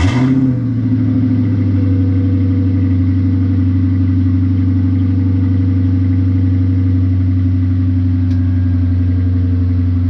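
2013 Dodge Charger Pursuit's HEMI V8 through a mid-muffler-delete exhaust, just started: a brief rise in revs right at the start settles within about a second into a loud, steady idle.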